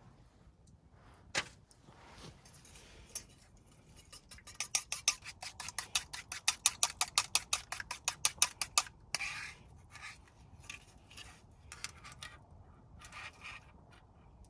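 Quick run of sharp taps, about five a second for around five seconds, with scattered single clicks and scrapes before and after: handling of utensils or cookware.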